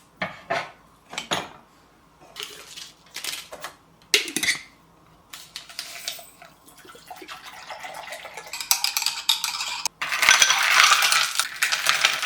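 Utensils clinking and scraping against dishes and cookware. There are separate sharp clicks in the first few seconds, then a denser, louder stretch of continuous clatter and noise over the last four seconds.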